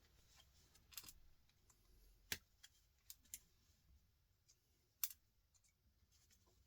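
A handful of short, sharp metallic clicks and ticks, about six scattered through near silence, from small pliers working wire out of small metal fittings. The loudest come about two and a half and five seconds in.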